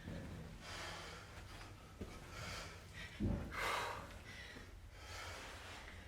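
A woman breathing hard and rhythmically through a strenuous kettlebell exercise, one heavy breath about every second. A low thud comes a little past three seconds in.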